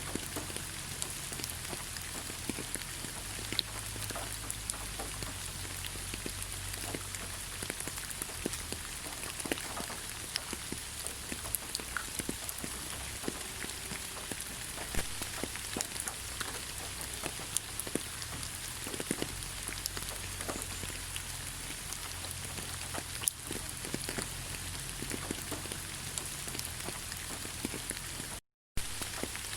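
Steady rain falling in a forest: a constant hiss with many separate drops ticking through it. The sound cuts out completely for a split second near the end.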